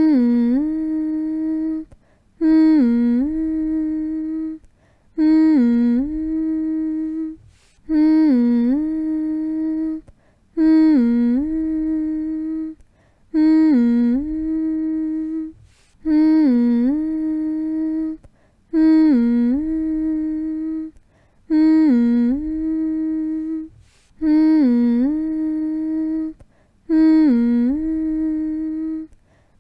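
A voice humming one short phrase over and over, about every two and a half seconds: a quick dip in pitch, then a long held note, then a brief pause before the next.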